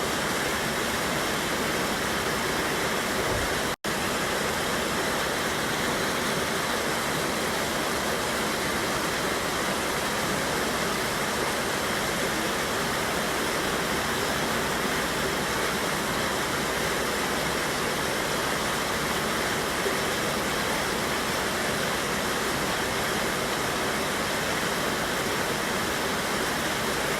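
River water rushing steadily over a small waterfall, a constant even roar. The sound drops out for an instant about four seconds in.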